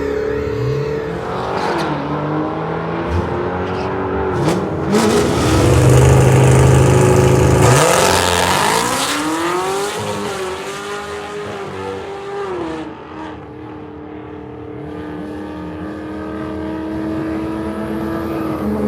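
A vehicle engine revving up and dropping back several times, loudest about a third of the way in, then holding a steady lower speed for the last few seconds.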